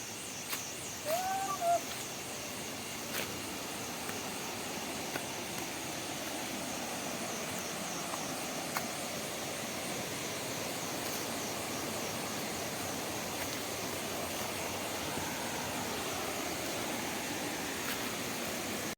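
Steady rushing of a stream or waterfall, with a short chirp and a couple of faint clicks about a second in.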